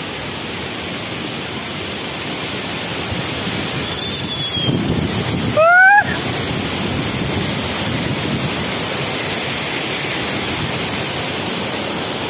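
Waterfall in full flow after heavy rain, a steady rushing of falling water. Just under six seconds in, a brief, loud rising call cuts through.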